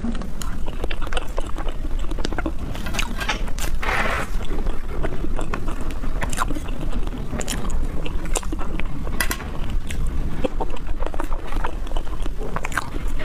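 Close-miked mouth sounds of eating soft dark chocolate mousse: wet clicks and smacking as it is chewed, with a short hiss about four seconds in.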